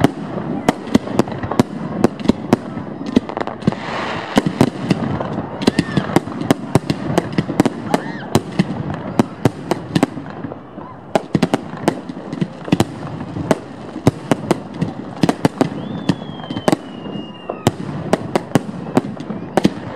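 Aerial fireworks salute bursting close by: dense, irregular sharp cracks and bangs, several a second, over a continuous rumble of bursting shells, easing briefly about halfway through. A thin falling whistle sounds for about a second and a half past the three-quarter mark.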